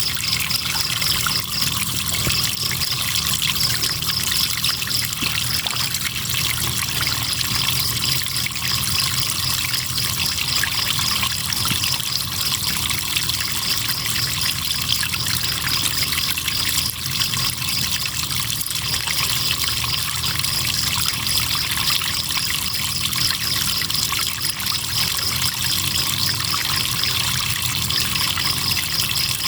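River water trickling and flowing steadily, with crickets trilling in a high, rapidly pulsing chorus that runs almost unbroken from about seven seconds in.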